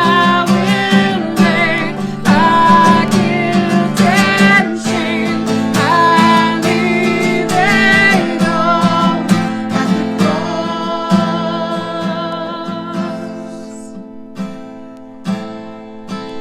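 Acoustic guitar strummed under a singing voice with vibrato. The music grows softer about twelve seconds in, then the strumming picks up again near the end.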